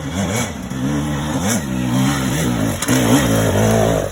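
Dirt bike engine revving up and down repeatedly as the rider works the throttle on a steep hill climb.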